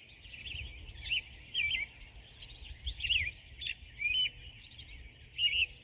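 A songbird chirping: a string of short, varied notes, each a quick swoop up and down in pitch, coming irregularly about one or two a second.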